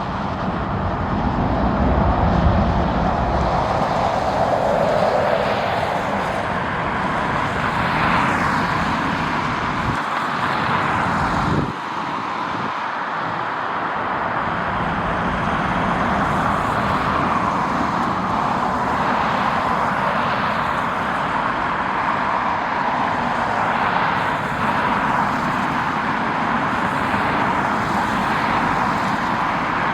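Steady noise of jet airliner engines at an airport, with an abrupt change in the sound about twelve seconds in.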